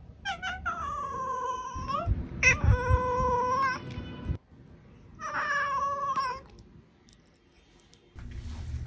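A cat yowling: three long, drawn-out meows, the third one shorter. A low steady hum starts near the end.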